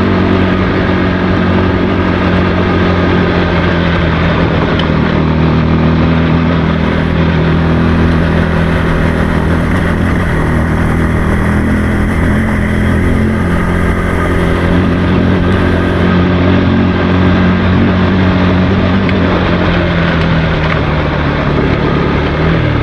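Motorcycle engine running steadily under way, holding a nearly constant pitch with only slight shifts.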